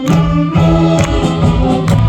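Live saxophone big band playing a trot popular-song medley, with sustained horn lines over a steady drum beat. The full band comes in at the very start after a brief break.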